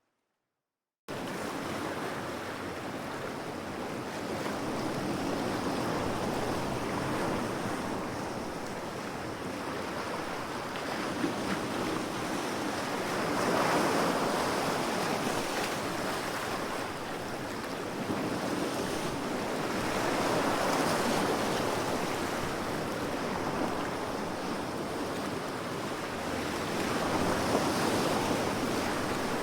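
Sea waves washing onto the shore, swelling and easing about every seven seconds. It starts suddenly about a second in, out of silence.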